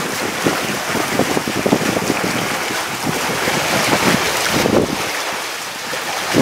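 Freight train wagons passing at speed: a steady loud rush with dense, irregular clattering from the wheels on the rails, mixed with wind noise on the microphone.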